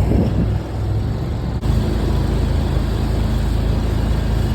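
A jon boat's motor running steadily, with an abrupt break in the sound about a second and a half in.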